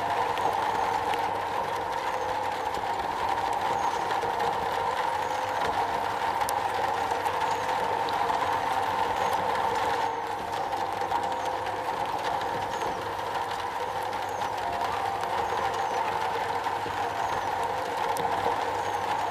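Steady rain falling on metal, a continuous even patter with a constant mid-pitched tone running through it.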